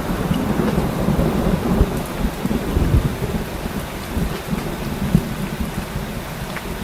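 Steady heavy rain with a long, low rumble of thunder that slowly fades.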